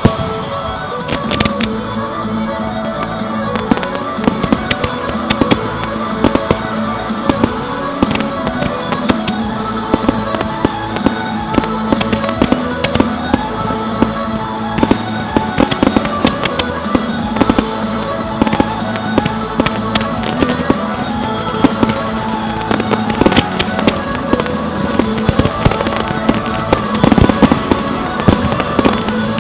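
Fireworks shells bursting and crackling in quick succession over loud recorded music, as in a display fired to a soundtrack. The bangs grow denser and louder near the end.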